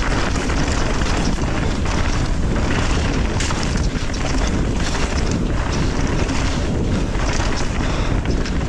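Wind buffeting the microphone over the rumble of mountain bike tyres on a dirt trail at speed, with frequent knocks and rattles from the bike over rough ground.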